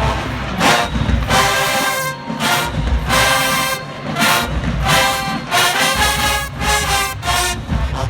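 Large HBCU-style marching band playing loud, punchy brass chords in short repeated blasts over heavy low end.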